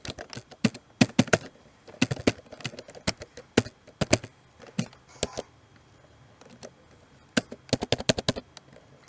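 Computer keyboard keys being pressed in short irregular runs of sharp clicks, with a pause of about two seconds in the middle.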